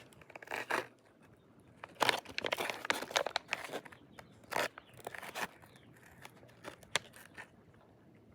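Plastic MRE wheat snack bread pouch being torn open and crinkled by hand: irregular tearing and crinkling bursts, densest about two to three and a half seconds in, tailing off into a few crackles.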